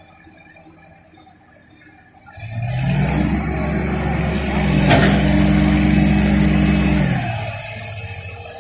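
A crane's engine revs up about two seconds in and holds at high revs under load, with a high whine above it, then drops back near the end. A single sharp knock comes about halfway through.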